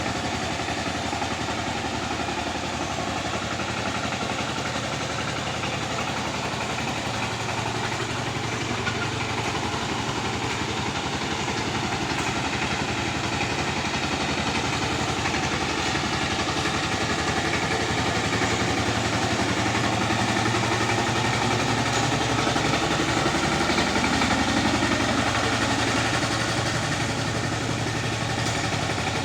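Tractor engine running steadily while working the field, getting slightly louder in the second half.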